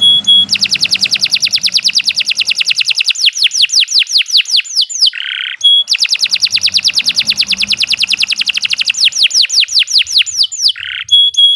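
Domestic canary singing a long, fast song: long rapid trills of repeated falling notes, each run broken briefly by a short buzzy note and a brief steady whistle, about halfway through and again near the end.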